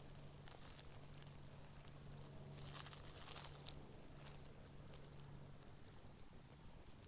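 Insects trilling steadily in a high, evenly pulsing tone, faint against a low hum, with some faint rustling around the middle.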